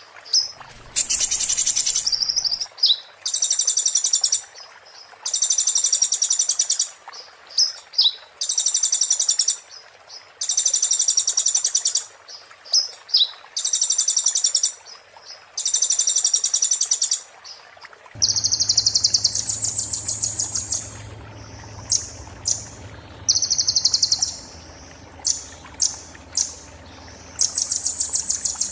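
Konin songbird singing in repeated bursts of about a second each, every burst a very rapid, high, scratchy trill, with short gaps between them. A steady low hum starts underneath about two-thirds of the way in.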